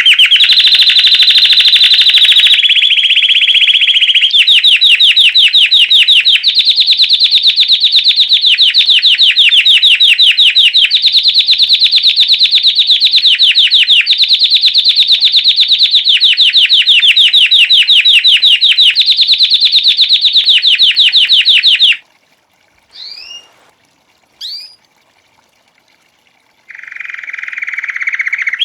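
Belgian canary singing in the classic campainha (bell) style: long runs of very fast rolling trills, switching to a new tour every couple of seconds. About 22 seconds in the song breaks off, leaving two short rising chirps, and a lower trill starts near the end.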